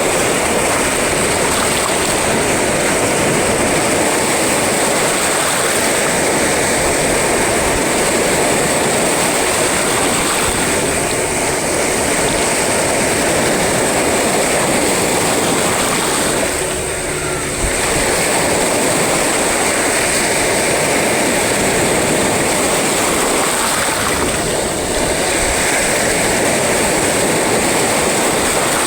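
Sea waves breaking on the shore, a steady loud rush of surf with a brief lull about seventeen seconds in.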